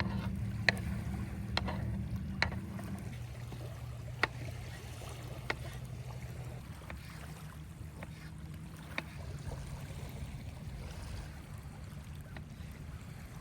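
A motorboat engine drones steadily out on the lake and slowly fades away. Over it come a handful of sharp clicks or snaps, most of them in the first few seconds.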